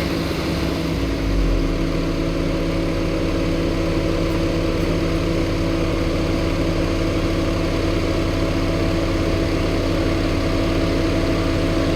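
An engine idling steadily with an even hum.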